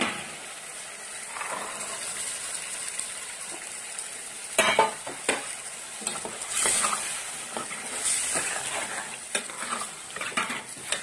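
Diced potatoes and green peas sizzling in an oily tomato-and-spice masala in a pan. From about halfway through, a spoon stirs and scrapes against the pan in a run of sharp clicks.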